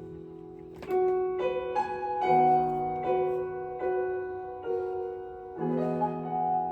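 Slow, gentle piano music, with chords struck about once a second.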